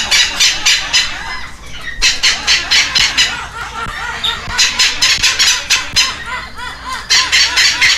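Baby red-lored amazon parrots giving rapid, pulsing begging calls while being fed, in about four bouts of roughly a second each, with softer warbling between the bouts.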